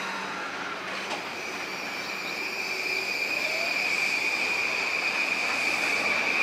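An electric train running along the tracks, growing louder, with a steady high-pitched wheel squeal over the running noise.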